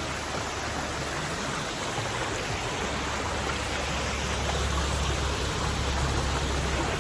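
Steady rush of falling and running water from a forest waterfall and stream, an even wash of noise with a low rumble, growing slightly louder through the middle.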